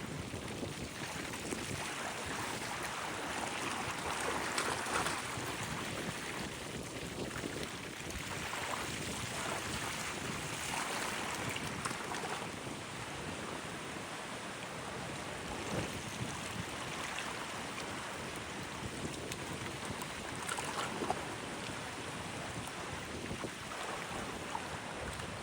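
Wind buffeting the microphone in a steady rush, with a few brief stronger gusts.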